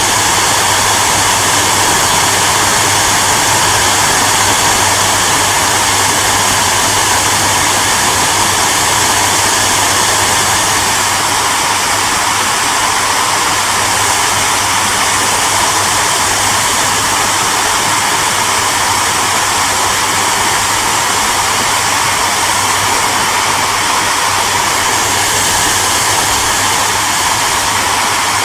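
Hair dryer running steadily: a constant rush of blown air with a low steady hum from its motor.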